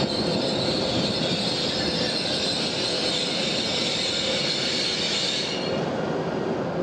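Shinkansen train moving slowly through the station, a steady rumble under a high wheel squeal; the squeal stops about five and a half seconds in.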